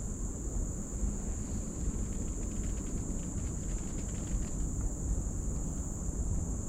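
Forest insects droning in a steady, high, unbroken buzz over a low rumble on the microphone.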